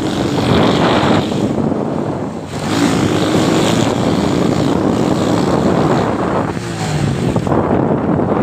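Motorcycle engine running on the move, with heavy wind buffeting the microphone.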